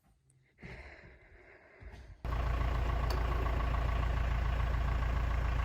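An engine idling steadily. It comes in abruptly about two seconds in, after a faint, quiet stretch.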